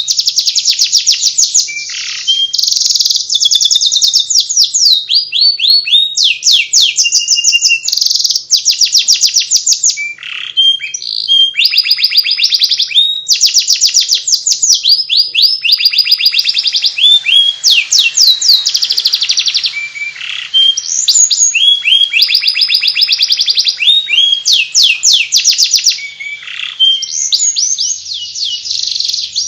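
Domestic canary singing without a break in the chattering 'ngeriwik' style. Its phrases are fast trills of quick falling notes, with now and then a longer downward slur, and very short pauses between phrases.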